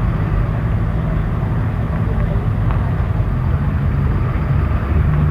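Car engines running with a steady low rumble as show cars drive out, growing a little louder near the end.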